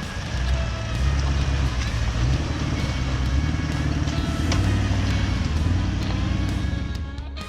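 A four-wheel-drive vehicle's engine running under load along a track, its low rumble swelling and easing, with background music over it. The engine sound fades near the end.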